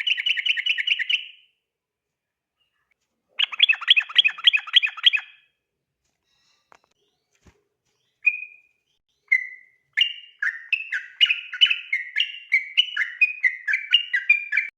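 Yellow-vented bulbul (trucukan) singing: a rapid rolling trill (the bird-keepers' "ropel") at the start and again around 3 to 5 seconds in, then after two short single notes a quick run of falling whistled notes that cuts off abruptly near the end.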